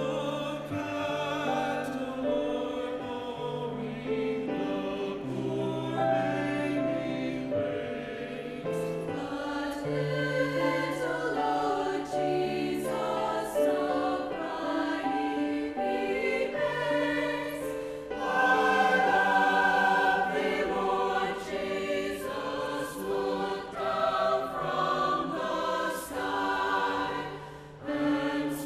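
A choir singing with piano accompaniment, the voices swelling louder about two-thirds of the way through.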